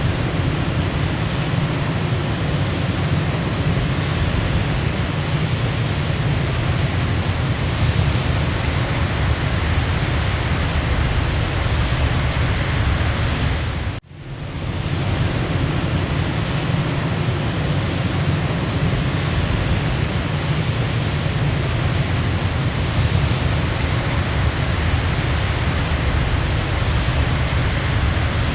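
Waterfall: a steady, dense rush of falling water. About halfway through it cuts out for an instant and swells back in.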